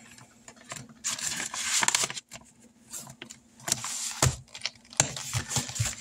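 Paper money and envelopes being handled: rustling with scattered light clicks and taps as the counted cash is put away.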